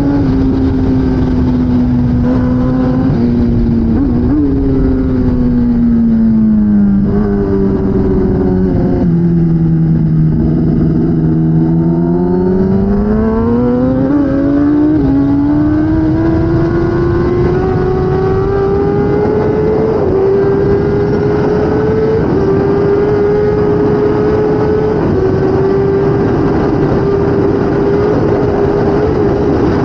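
2016 Kawasaki ZX10R's inline-four engine at race pace, with a steady rush of wind. The engine note steps down and falls steadily as the bike slows for a corner, bottoming out about ten seconds in. It then climbs back up as the bike accelerates out, with short dips at the upshifts near the end.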